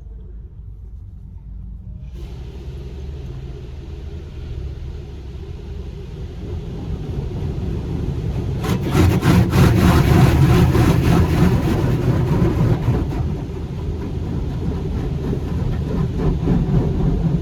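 Car engine running with a low steady rumble as the car pulls slowly into an automatic car-wash bay. About two seconds in, a louder rushing noise joins it, swells to its loudest around the middle and keeps going.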